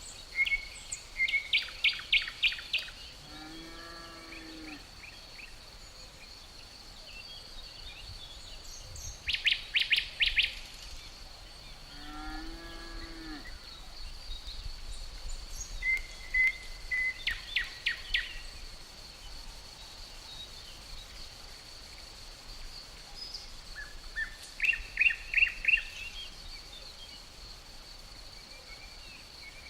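Songbirds singing short, rapid trilled phrases, four bursts spaced several seconds apart, over a steady high insect drone. Twice between the first phrases comes a lower, drawn-out pitched call, each lasting about a second and a half.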